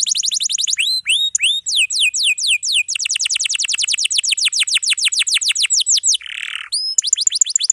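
Domestic canary singing long rolling trills: rapid strings of high, downward-sweeping notes, about ten a second, that change speed between phrases. A short harsh, raspy note comes about six seconds in.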